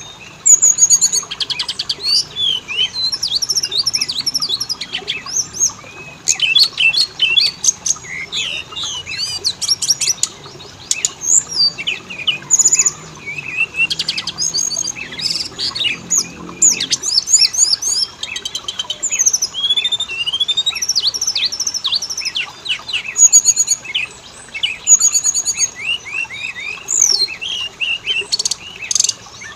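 Oriental magpie-robin (kacer) singing continuously: a dense, varied run of quick sweeping whistles, rapid trills and chattering note-trains, the kind of song played to caged magpie-robins to provoke them into singing.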